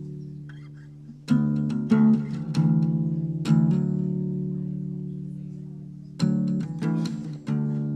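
Guitar playing chords, each struck sharply and left to ring and fade. There are about eight strikes in a slow, uneven rhythm, with a longer ringing stretch in the middle.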